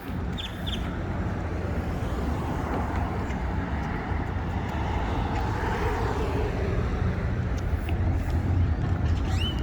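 Street traffic: a car passes by, its tyre and engine noise swelling and fading in the middle, over a steady low rumble.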